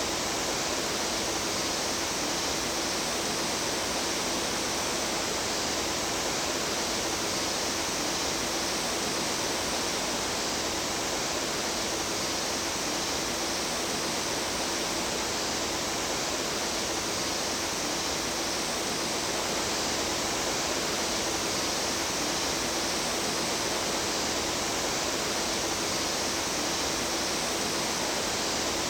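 Mountain stream water running with a steady, unbroken rush.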